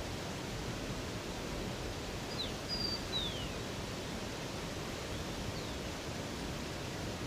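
Steady rush of running water, with a few short high falling bird chirps a little over two seconds in and a fainter one about five and a half seconds in.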